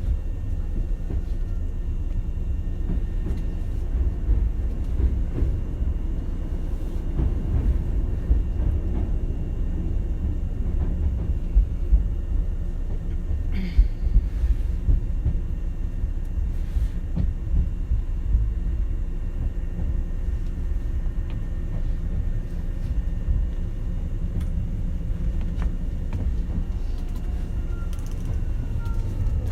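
Running noise heard inside a Hankyu 7000 series electric train: a steady low rumble of wheels on rail with a faint steady hum, and a few short knocks around the middle.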